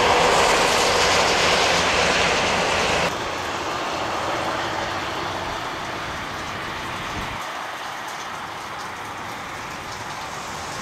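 Highway traffic on a snowy, slushy road: a steady hiss of tyres and rolling vehicles. The noise drops sharply about three seconds in and thins again around seven seconds, as the shot changes.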